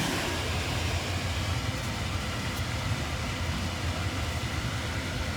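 Blower fan motor of a ClimateMaster water source heat pump running steadily, a constant low rushing hum, with the compressor not yet started.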